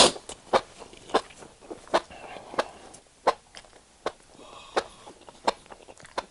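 Close-miked wet chewing of a mouthful of spicy enoki mushrooms, with a sticky mouth click about every two-thirds of a second.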